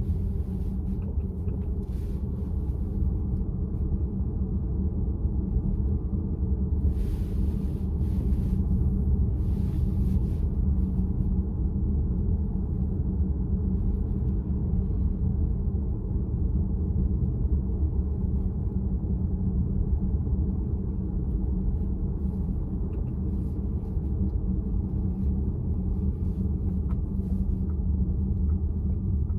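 Steady low road and tyre rumble of a VW ID.4 electric SUV driving, heard from inside the cabin.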